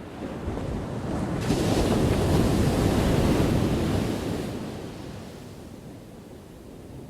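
An ocean wave crashing on the shore: the surf swells in, breaks loudly about a second and a half in, and washes back down to a low rush.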